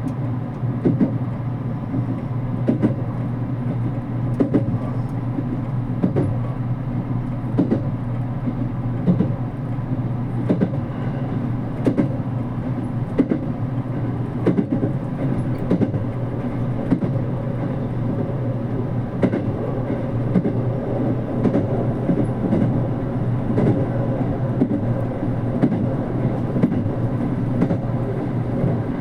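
JR Kyushu 787-series express train running, heard inside the passenger car: a steady low rumble and hum, with the wheels clicking over rail joints in pairs about every two seconds.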